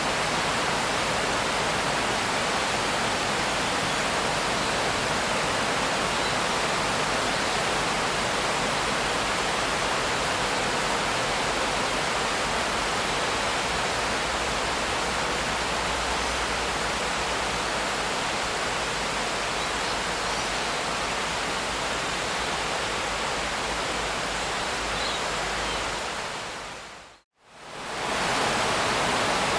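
Steady, even hiss of heavy rain. Near the end it fades out to a moment of silence and fades straight back in.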